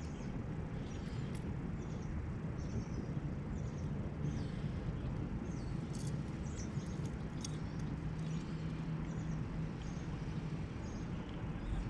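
Birds chirping and calling in short repeated notes over a steady low hum and an even background hiss, with a few sharp clicks.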